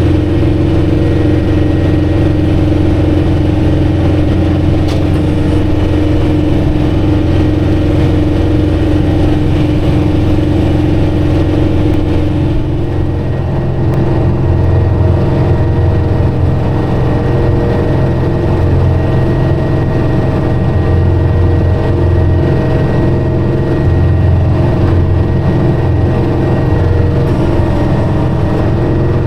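John Deere 4066R tractor engine running steadily under way, with a strong steady tone whose pitch shifts about 13 seconds in.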